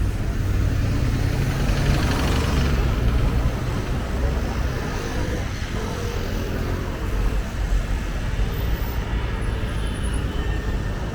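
City street ambience dominated by a steady low rumble of road traffic, with a louder swell about two seconds in as a vehicle passes close by.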